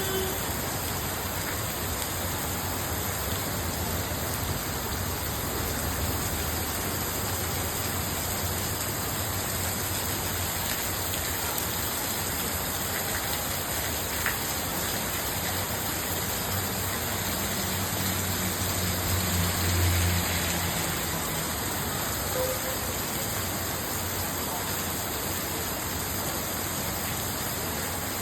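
Steady heavy rain falling. A low rumble swells and fades about two-thirds of the way through.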